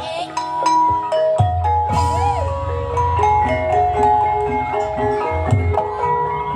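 Banyumasan gamelan music accompanying an ebeg trance dance: mallet-struck keyed instruments play a stepping melody of ringing notes over a steady low drone.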